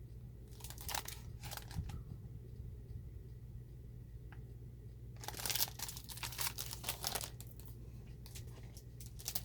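Plastic packaging crinkling in bursts as it is handled: a short flurry about a second in, a longer one around the middle, and a brief one near the end, over a steady low hum.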